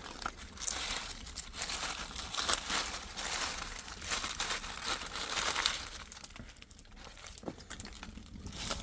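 Crinkling and rustling noise with scattered sharp clicks, loudest through the first six seconds and then easing off.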